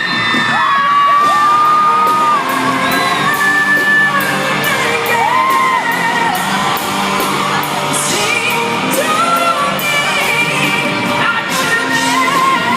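Live pop ballad with a woman's voice holding long, bending sung notes over the band's steady beat, in a large echoing arena.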